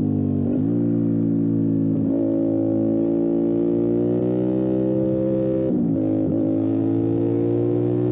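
Motorcycle engine running under way, its note climbing slowly with the throttle, broken by brief dips in pitch about half a second in and twice near the end.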